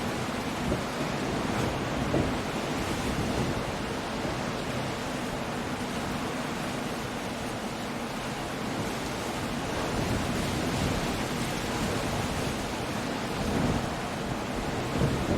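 Coastal storm ambience: a steady wash of rain, wind and sea surf, with a few brief swells in loudness.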